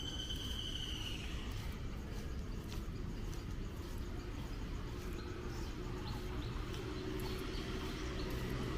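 City street ambience: a steady low traffic hum with faint footsteps on damp pavement. A short, high, slightly falling whistle-like call sounds at the start, and a vehicle's engine hum grows near the end as it approaches.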